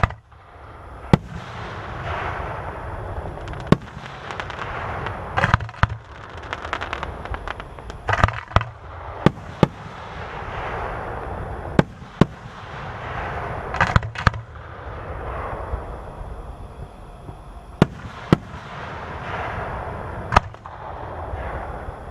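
Aerial fireworks display: shells bursting with sharp bangs, around ten or more, some in quick clusters. Between the bangs comes a hissing crackle that swells and fades over a few seconds at a time.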